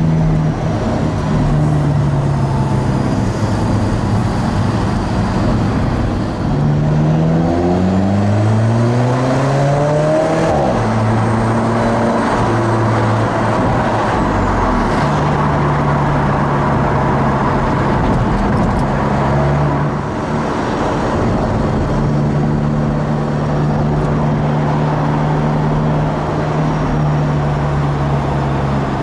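Alfa Romeo 4C's mid-mounted 1.75-litre turbocharged four-cylinder heard from inside the cabin while driving in city traffic: it revs up through the gears a few seconds in, then runs at a steady cruise, and starts to rev up again at the very end.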